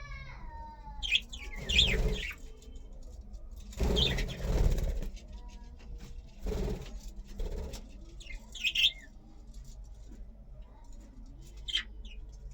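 Pet budgerigars chirping in short, sharp calls, with a couple of bursts of wing flapping.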